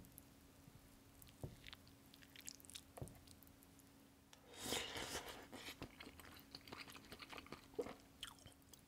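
Close-miked eating sounds: a person chewing a spoonful of rice from a bowl of ramen, with small wet smacks and clicks and a louder stretch of chewing about halfway through.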